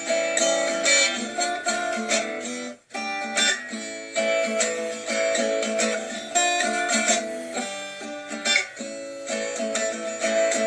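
Acoustic guitar strumming chords in an instrumental passage between sung lines, with a brief break in the strumming about three seconds in.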